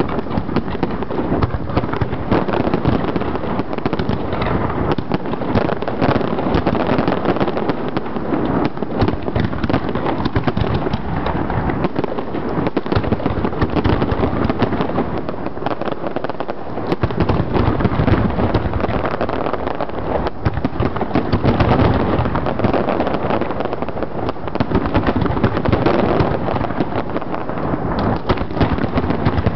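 Aerial fireworks display: shell bursts following one another in quick succession, one running into the next without a pause.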